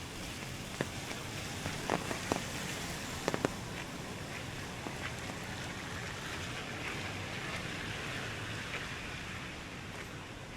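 Rainy street ambience: a steady hiss of rain and traffic, with a few sharp ticks in the first few seconds.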